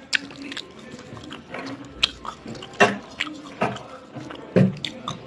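A person eating with the mouth close to the microphone: chewing and biting, with several sharp, crisp crunches about a second apart.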